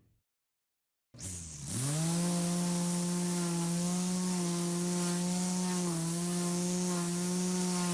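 A small engine starts up about a second in, climbs briefly in pitch, then runs on as a steady, loud buzz.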